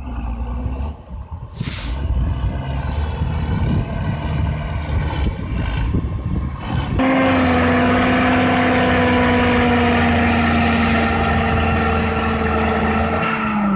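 Tractor diesel engine running with uneven rumble, then about halfway through suddenly revved hard and held at high revs, its pitch sagging slightly near the end.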